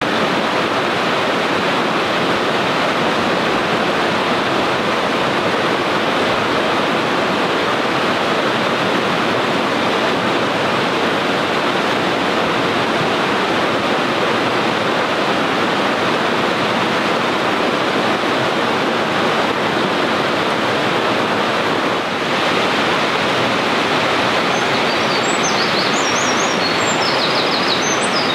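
Mountain stream rushing steadily in a gorge. Near the end a Eurasian wren starts its high, rapid trilling song over the water.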